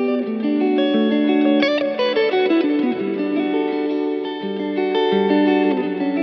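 Vola OZ V3 MC electric guitar played through effects, ringing held notes and chords, with a downward pitch slide about two to three seconds in.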